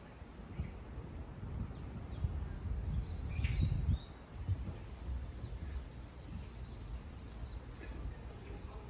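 Small birds chirping now and then in short high calls, clearest about three and a half seconds in and again near the end, over a steady low outdoor rumble.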